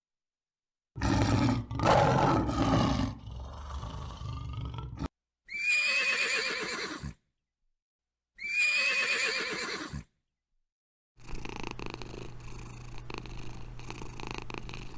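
A string of animal sounds separated by short silences: a loud rough roar, then two drawn-out higher-pitched calls, then a steady low rumble with scattered clicks.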